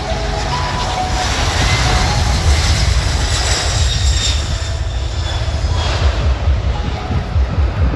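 C-17 Globemaster III's four turbofan engines running as the jet transport passes, a deep rumble with a high engine whine that is loudest in the middle and eases near the end.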